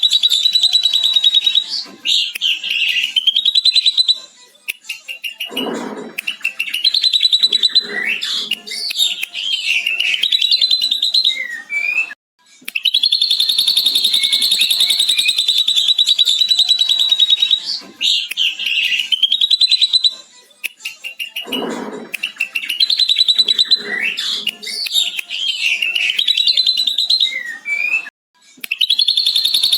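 Ashy drongo singing a long, fast chattering trill in imitation of a lovebird's 'ngekek', between varied rising and falling whistled phrases and a lower note. The same sequence comes round again about every 16 seconds, as a looped recording.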